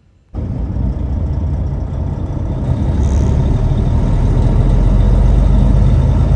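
Heavy truck engine running as the truck drives, a loud low drone that starts suddenly and grows louder over the first few seconds.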